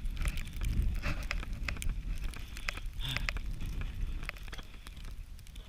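Footsteps crunching through deep snow, with many short irregular crunches, over a steady low rumble of blizzard wind buffeting the microphone.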